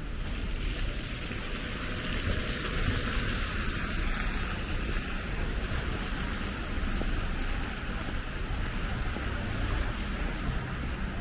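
City street noise: a steady hiss over a low rumble, the hiss swelling over the first few seconds and easing off.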